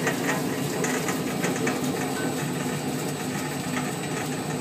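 Grape destemmer running steadily, a mechanical hum with a scattered rattle and clatter of stalks and grapes passing through it.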